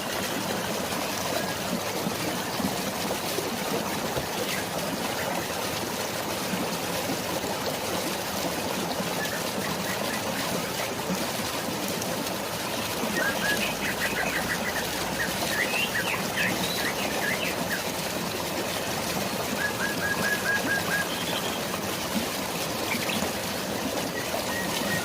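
Steady flowing water and drizzling rain, with birds chirping: short runs of quick chirps a few times, including a fast trill about twenty seconds in.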